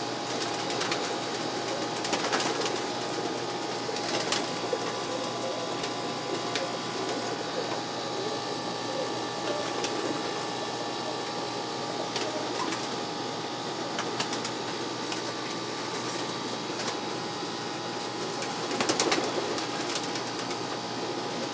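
Domestic pigeons cooing in a loft, a steady murmur of many birds, with scattered small clicks and scuffs.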